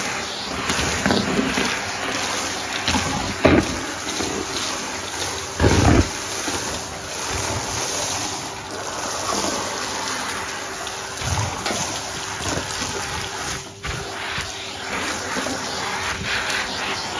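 Numatic Hetty cylinder vacuum cleaner running with a steady motor hum while it sucks up a mess through its hose and wand. A sharp knock comes about three and a half seconds in and a heavier thud around six seconds.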